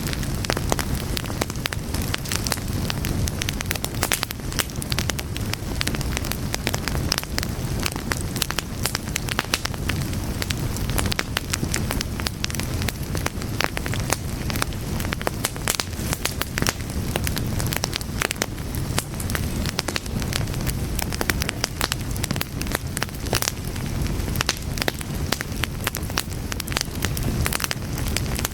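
Fire crackling continuously, a dense, irregular run of sharp crackles and pops over a low, steady rumble of the flames.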